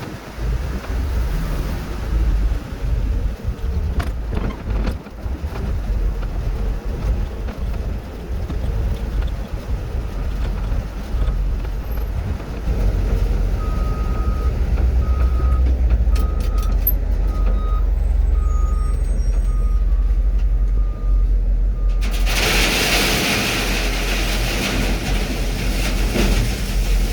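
Heavy vehicle engine rumbling at idle. About halfway through, a reversing alarm sounds a run of evenly spaced beeps, roughly one a second. Near the end a loud rushing noise sets in and holds.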